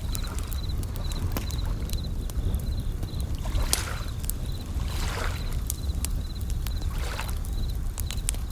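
A layered bed of nature sounds: a campfire crackling with sharp pops, waves washing in over a steady low rumble, and bell crickets (suzumushi) ringing in short, evenly repeated high chirps.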